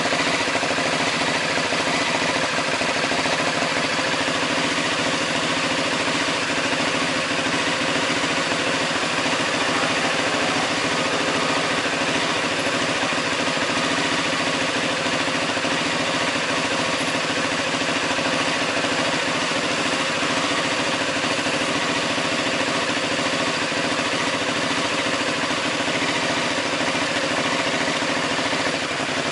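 Ducati Hypermotard 939's L-twin engine with an Akrapovic exhaust idling steadily, holding one even note with no revs.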